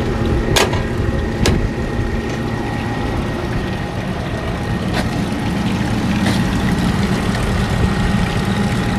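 Evaporative (swamp) cooler running with its blower bearings freshly greased: a steady hum from the blower fan and motor with a faint whine. A few sharp clicks come about half a second, a second and a half, and five seconds in.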